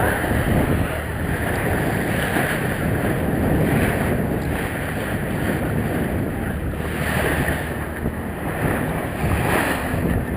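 Wind buffeting the microphone and water washing along the hull of a sailboat under way: a steady rumbling rush that swells and eases every few seconds.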